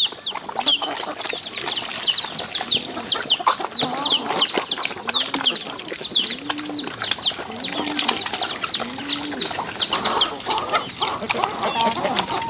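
Chickens calling: a rapid stream of high, falling peeps over low clucks that come about once a second. The peeps thin out near the end.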